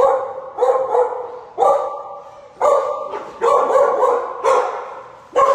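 Dogs barking in a shelter kennel room, about seven barks roughly a second apart, each echoing off the hard walls.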